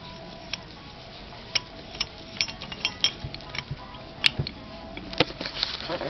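Metal parts of a lathe spindle assembly and hand tools clicking and clinking in irregular light taps, with one sharper metallic click about four seconds in.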